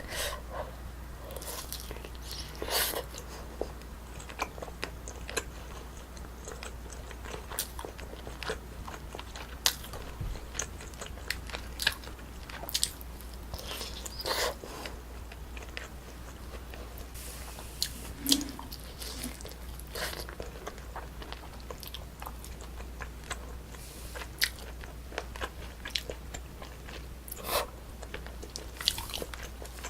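Close-miked eating of braised spicy chicken: chewing and biting, with short sharp clicks and smacks coming irregularly every second or so, over a steady low hum.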